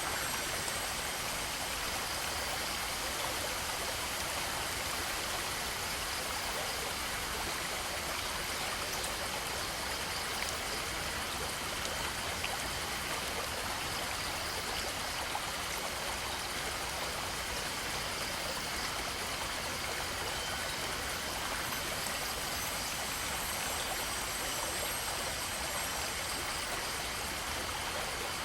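A stream flowing, an even, unbroken rush of running water.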